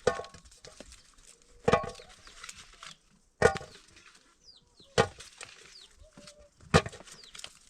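Heavy blows of a tool striking wood, five in a row at an even pace of about one every 1.7 seconds, each with a short ring.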